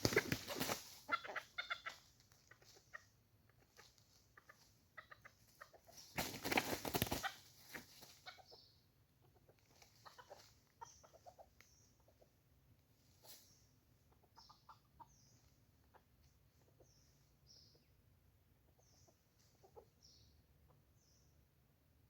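Junglefowl clucking in short notes, with two loud noisy bursts, one at the start and one about six seconds in. Faint, short, high chirps repeat through the second half.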